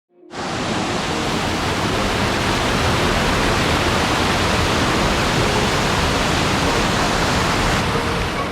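Waterfall: falling water making a steady, even rushing noise that sets in just after the start and holds unchanged.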